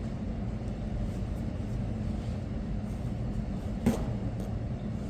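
Steady low mechanical hum, with one sharp knock a little under four seconds in.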